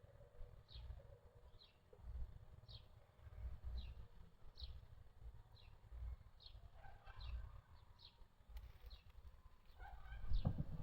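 A small bird calling outdoors: short, high, falling chirps repeated about once a second, over a low uneven rumble. A louder thump comes near the end.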